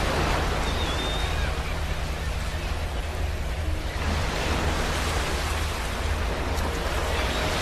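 Ocean waves breaking on a beach, with a fresh surge of surf near the start and again about four seconds in, over a steady rush of wash. A faint short high chirp sounds about a second in.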